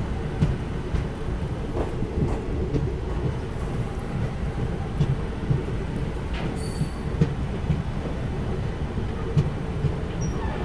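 Mussoorie Express passenger train running through a station: a steady low rumble of wheels on the rails, broken by irregular sharp clicks from rail joints. A short high squeak comes about seven seconds in.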